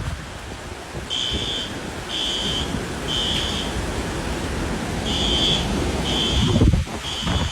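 An alarm beeping in groups of three: short high-pitched beeps about a second apart, then a pause, the pattern of a smoke or fire alarm. Steady low wind rumble runs under it.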